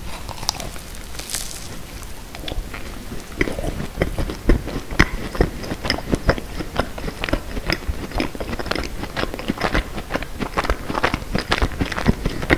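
A close-miked bite into a macaron, then chewing: a dense run of small crisp crackles and clicks from the macaron shell, which grows thicker and more regular a few seconds in.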